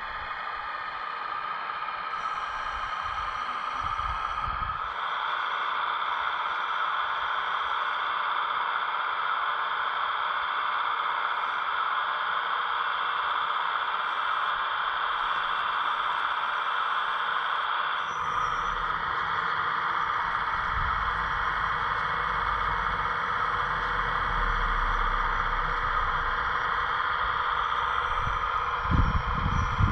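Hydraulic pump of a scale RC construction machine running with a steady whine. It grows louder about five seconds in, and a low rumble joins about two-thirds of the way through, as the machine takes on load.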